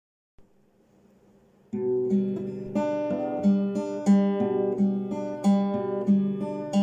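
Acoustic guitar starting to play about two seconds in, after near silence, with chords sounding in a steady repeating rhythm.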